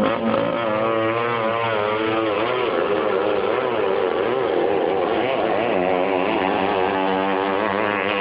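Drag racing boat engine running, its pitch wavering up and down repeatedly.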